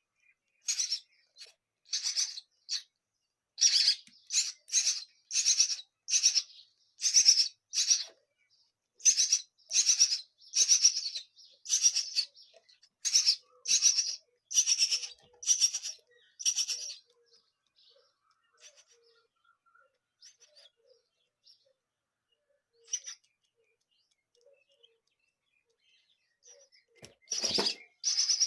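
Nestling birds begging with rapid, high-pitched chirps, about one or two a second. The chirps stop for about ten seconds, leaving only faint peeps. A brief low flutter comes near the end, and then the chirping starts again.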